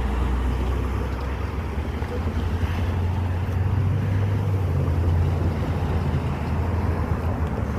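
Long Island Rail Road diesel train running along the track close by, a steady low rumble with a strong low hum that swells a little midway.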